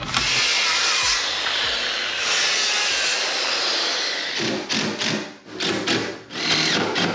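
Power saw cutting through a piece of wood for about four seconds, followed by a run of shorter, irregular bursts.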